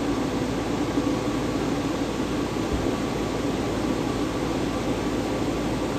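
Cooling fans of Bitcoin mining servers spinning up as the rigs power on: a steady rushing fan noise with a faint hum.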